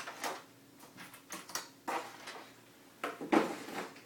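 Irregular short rustles and knocks of packaging and parts being handled while unpacking a shipping box, about eight in all, the loudest and longest a little past three seconds in.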